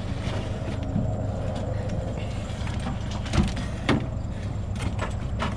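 Pickup truck engine idling with a steady low hum, and two knocks about three and a half and four seconds in as a metal garage door opener is shifted into the truck bed.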